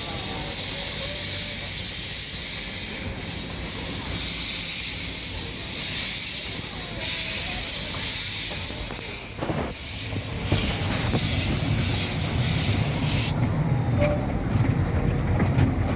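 Small-gauge steam locomotive hissing loudly as it vents steam; the hiss cuts off suddenly about thirteen seconds in. From about ten seconds in, a low rumble of the train rolling on the rails builds underneath.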